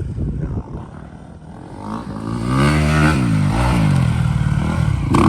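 Dirt bike engine running, dropping low about a second in, then revving up and down several times from about two seconds in.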